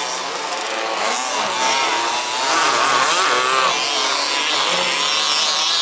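Several 1/5-scale RC buggies' small two-stroke petrol engines racing together, revving up and down so that their pitches keep rising and falling, loudest around the middle.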